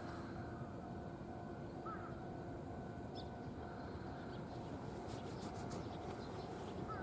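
Quiet outdoor background noise with a faint steady hum and a few short bird chirps, one about two seconds in, one about a second later, and another near the end.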